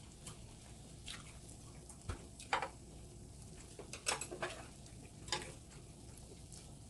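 Light clicks and clinks of eating utensils against dishes during a meal: a handful of separate short sounds, the loudest about two and a half seconds and four seconds in.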